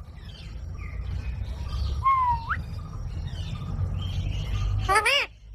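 Green parrot calling: a whistle that dips and then rises sharply about two seconds in, and a loud, short squawk near the end, over a steady low rumble.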